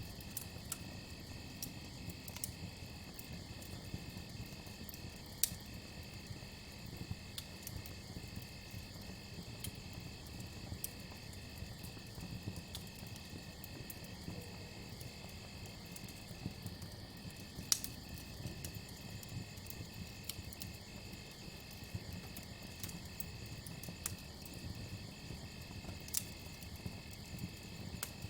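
Campfire crackling with scattered sharp pops, the loudest about five and a half seconds in and near the middle, over a steady pulsing trill of crickets.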